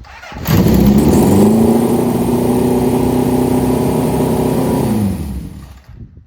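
Motorcycle engine revved up about half a second in, held at steady raised revs for a few seconds, then let back down and fading out near the end.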